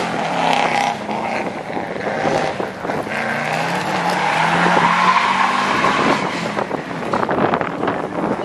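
Subaru Impreza rally car's flat-four engine revving hard as the car drives out of a hairpin, its pitch rising and falling several times.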